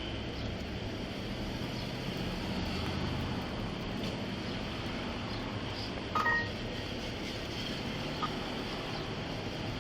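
Short electronic beep of two or three stacked tones about six seconds in, with a fainter single beep about two seconds later, over a steady low hum.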